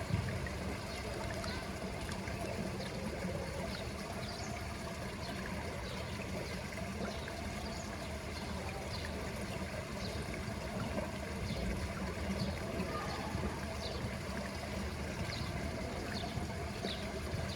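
Steady trickling and splashing water at a pool, with short high chirps repeating about once a second.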